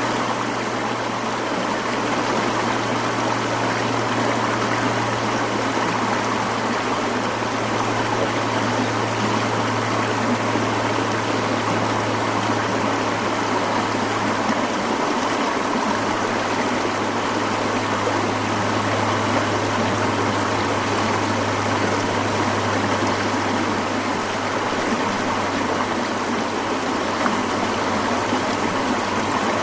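Mountain stream flowing with a steady, unbroken rush of water, a low steady hum underneath.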